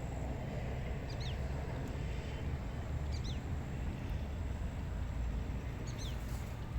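Wind blowing across the microphone as a steady low rumble, with a small bird giving a short, high, falling call three times, every two to three seconds.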